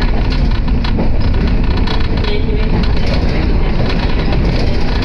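Passenger train running, heard from inside the carriage: a loud, steady rumble of wheels on the rails.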